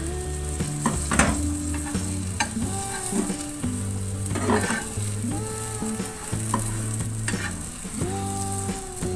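Omelette sizzling steadily in hot oil in a frying pan on a low flame, with a few short clicks as it is folded. Soft background music with changing notes plays underneath.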